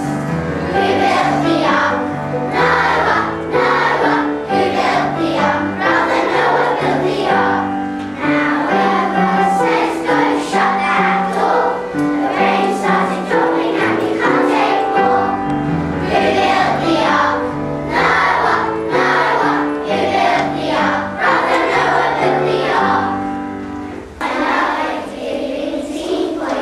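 Young children singing a song together as a choir over an instrumental accompaniment with a stepping bass line.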